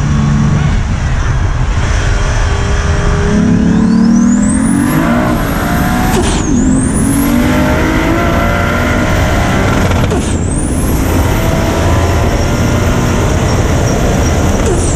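Turbocharged 2JZ-GTE inline-six accelerating hard, its engine note and a high turbo whine climbing together. Both drop sharply at two gear changes, about six and ten seconds in, then climb again.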